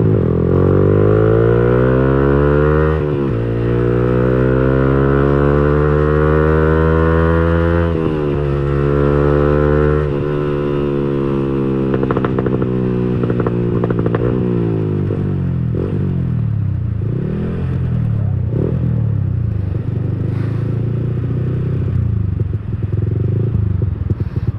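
Yamaha R15 V3's single-cylinder engine through an aftermarket racing exhaust, under way. The revs climb and drop sharply at upshifts about 3 and 8 seconds in, then the pitch falls as the bike slows. The later half is a lower, uneven burble with scattered crackles from the exhaust.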